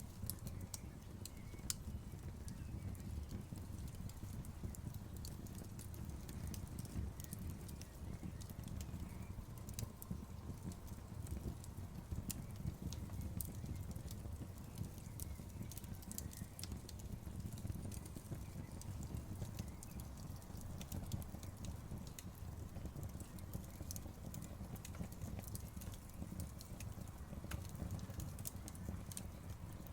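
Campfire crackling: irregular sharp pops and snaps of burning wood over a low steady rumble.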